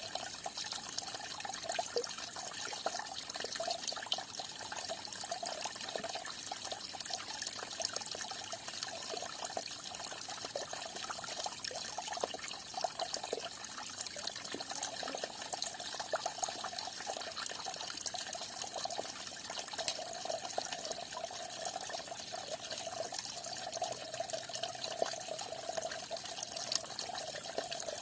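Small stream of falling water splashing and trickling steadily, with many small splashes and no pauses.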